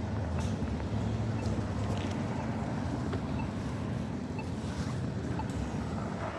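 Steady low rumble of street traffic, with some engine hum and a few faint ticks over it.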